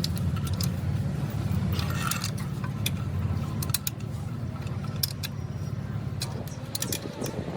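Metal tools and engine parts clinking and tapping against each other in quick, irregular clicks, over a steady low hum.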